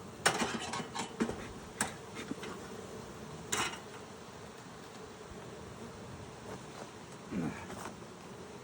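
Honey bees buzzing around an open hive, a steady hum. Several sharp clicks and knocks come in the first two seconds, a short hiss about three and a half seconds in, and a louder buzz that drops in pitch about seven seconds in.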